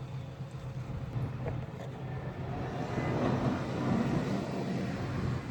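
A vehicle engine running steadily, with a broader noise that swells louder about three seconds in and fades again a second and a half later.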